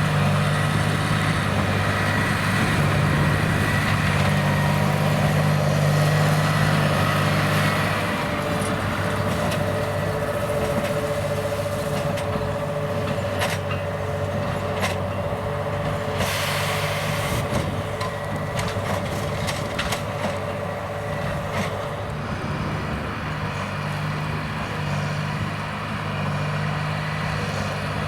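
John Deere 8330 tractor's diesel engine running steadily while it pulls a Krone BigPack square baler. The engine note drops about a third of the way in. Scattered sharp knocks follow, with a brief hiss about halfway through.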